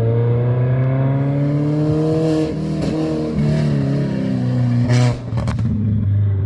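Drift car's engine held at high revs, its pitch climbing, stepping down and climbing again, with a hiss over it. A sharp crack about five seconds in, then the revs fall away.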